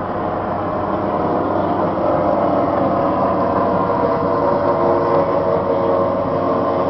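30 hp outboard motors on racing tunnel boats running steadily, growing a little louder about two seconds in.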